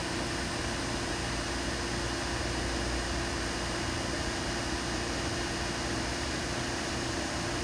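Butler Newall CNC strut grinder running: grinding wheel spinning and work spindle turning while the wheel head feeds slowly along the part, a steady hum with a few steady tones.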